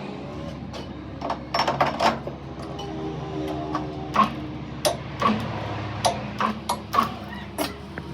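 Metal parts being knocked and tapped in a workshop: about a dozen irregular sharp clinks, some with a short ring, over a steady low hum.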